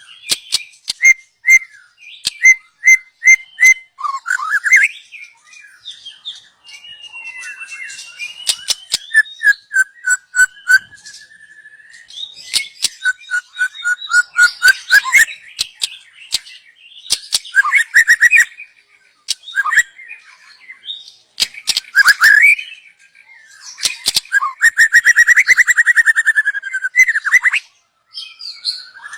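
A young white-rumped shama singing a varied series of loud whistled phrases, gliding notes, rapid rattling trills and sharp clicks, broken by short pauses.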